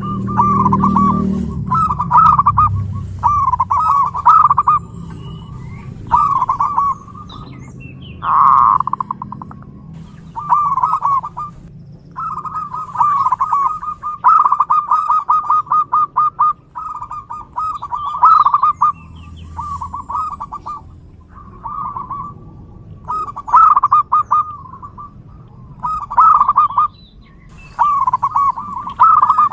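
Zebra dove (perkutut) cooing: phrase after phrase of quick, rolling, pulsing notes, with short gaps between them.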